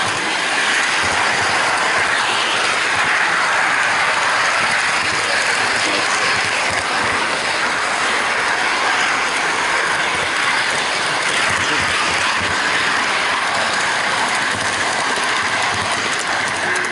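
HO-gauge model freight train rolling along its track, heard from a camera riding on one of its wagons: a steady, fast rattling clatter of small wheels on the rails.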